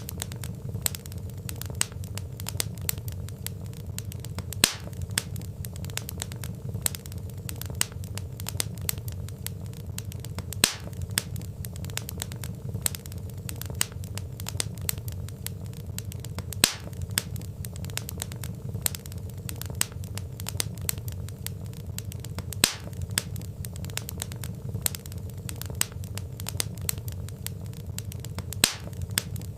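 Burning logs crackling: dense, irregular small sharp pops over a low steady noise, with a louder pop about every six seconds.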